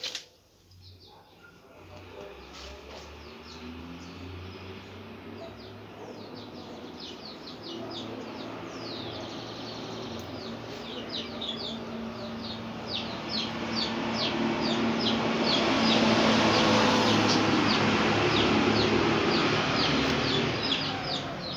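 Birds chirping rapidly, many short high chirps several times a second, over a background noise that swells louder through the second half.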